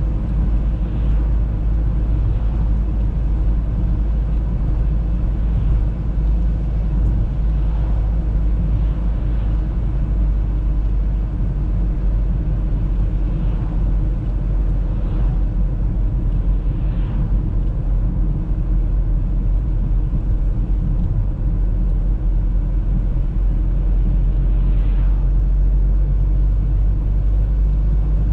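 Audi A3 driving steadily: a continuous low rumble of engine and tyres on the road, with a few faint hissy swishes now and then.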